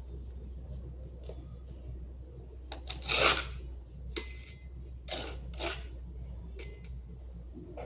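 A few short rasping, scraping strokes over a steady low hum; the first, about three seconds in, is the loudest, with two more close together near the middle.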